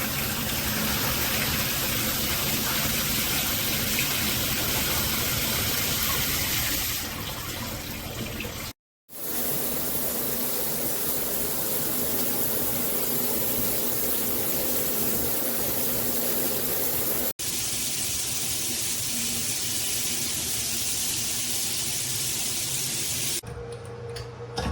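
Shower water spraying steadily from a HammerHead dual shower head combo, with its flow regulators removed for full pressure: an even rushing hiss. The sound breaks off briefly about nine seconds in and again about seventeen seconds in, and turns quieter near the end.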